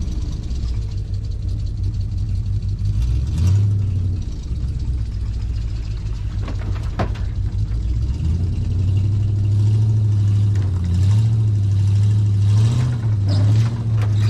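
A vehicle engine running at low speed, its pitch stepping up and down as it is revved several times and getting louder in the last few seconds. There is a single sharp click about seven seconds in.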